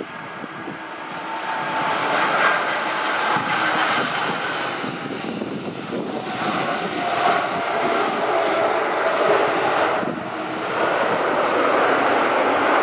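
Jet airliner's engines running loud as the plane passes: a dense rush with a faint whine. It swells about a second in and dips briefly near the end.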